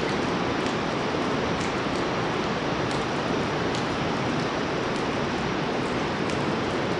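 Heavy rain falling in a steady hiss, with a few sharp drip ticks now and then.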